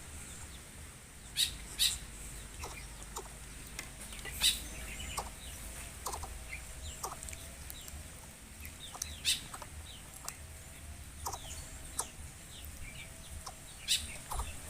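Short clucking bird calls and faint chirps, broken by about five sharp clicks spaced a few seconds apart.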